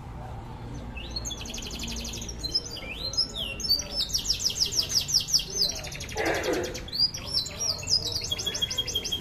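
Canary singing: fast trills of rapidly repeated high notes that begin about a second in and run in phrases with short breaks. A brief lower noise sounds about six seconds in.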